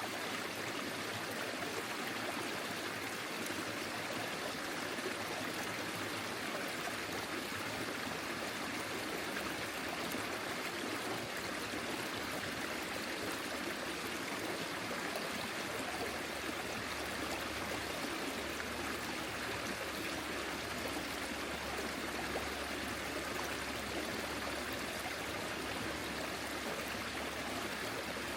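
Forest stream flowing over stones: a steady rush of running water with trickling and gurgling.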